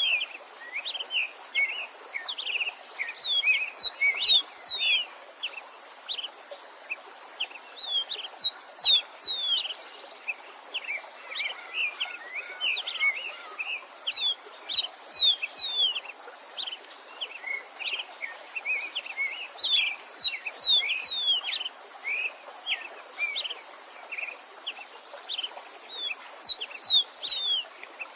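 Songbirds singing over the steady rush of a stream. One bird repeats a loud phrase of quick downward-sweeping whistled notes about every five to six seconds, with other birds chirping in between.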